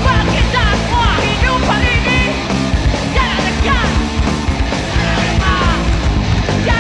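Live rock band playing a song at full volume, with yelled vocals over the band.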